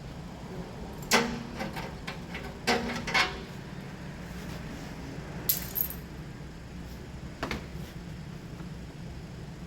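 Metal tools or engine parts clinking as they are handled, four or five sharp clinks spread over several seconds, with a brief high hiss around the middle, over a steady low hum.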